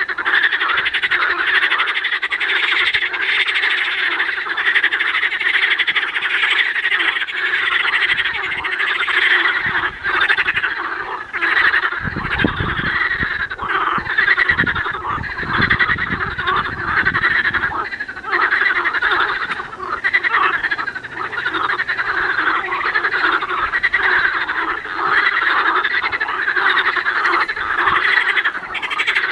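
Dense chorus of many frogs croaking at once, their calls overlapping into a continuous din.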